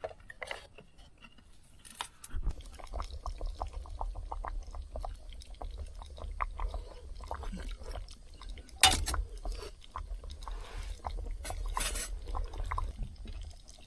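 Quiet cooking and eating sounds: scattered light clicks and taps of utensils over a low steady hum that starts about two seconds in, with two sharper knocks later on.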